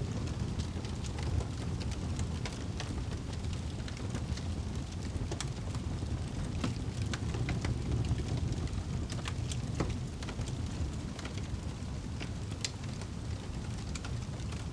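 Wood fire burning in a fireplace: a steady low rumble of flames with many sharp crackles and pops at irregular intervals.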